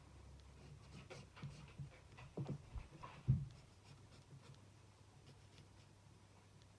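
Thin tip of a dual-tip marker stroking on card stock in short, faint scratches, with a soft knock about three seconds in. After that only faint room noise.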